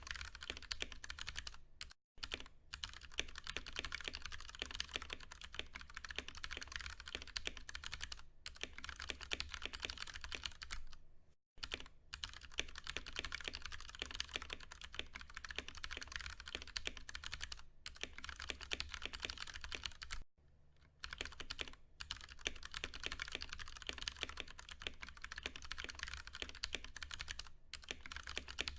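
Continuous fast typing on a Ducky One 2 Mini mechanical keyboard with Cherry MX Brown switches: a dense stream of key clacks, broken by brief pauses about two seconds in, near the middle and about two-thirds of the way through.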